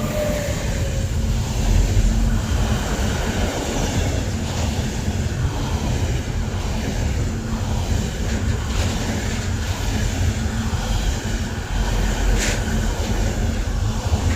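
Train passing close by: a steady rumble of wheels on rail that swells up just as it begins, with one sharp clack about twelve seconds in.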